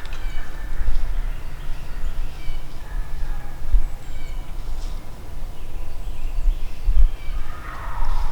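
Wild turkey gobbling in the woods, a loud gobble coming near the end, with small birds chirping throughout over a steady low rumble.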